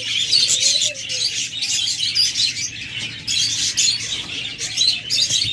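A crowd of caged budgerigars chattering and chirping, many birds at once in a continuous high-pitched twitter.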